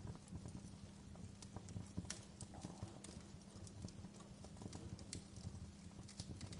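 Wood fire crackling in a fireplace: faint, irregular snaps and pops over a low rumble.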